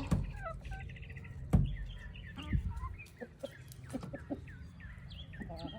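Hens in a chicken coop making soft clucks and short chirping calls throughout, with a single sharp knock about a second and a half in.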